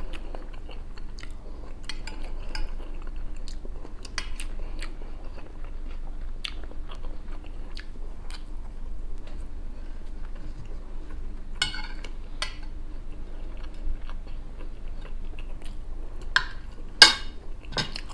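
Close-up eating sounds: a man chewing rice, vegetables and beef, with a metal spoon scraping and clinking on a plate in short scattered clicks. A louder sharp clink comes near the end.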